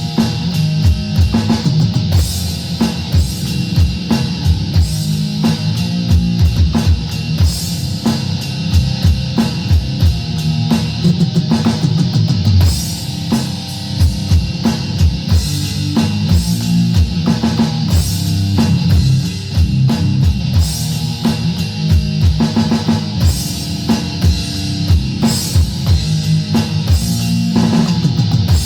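A rock band playing an instrumental passage: drum kit with rapid kick and snare hits under steady, heavy guitar.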